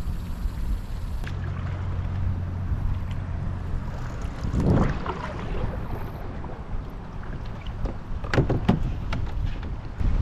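Wind rumbling on an outdoor microphone, with a brief rush of noise about four and a half seconds in and a few sharp knocks near the end.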